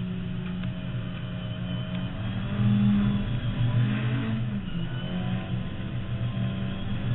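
Mk2 Ford Escort's 2.0 Pinto four-cylinder on twin 45 carburettors, heard from inside the cabin under hard track driving. The engine note rises and gets louder about two and a half seconds in, the revs fall briefly near the middle, then it pulls steadily again.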